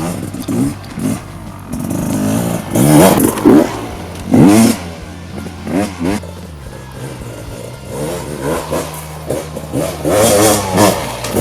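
2018 Gas Gas EC300 single-cylinder two-stroke dirt bike engine revving up and down in repeated bursts of throttle, the loudest about three and four and a half seconds in.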